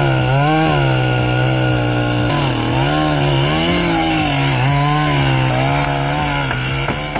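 Chainsaw running at high revs, its pitch dipping and rising again several times, as when a saw is pushed into and eased out of a cut.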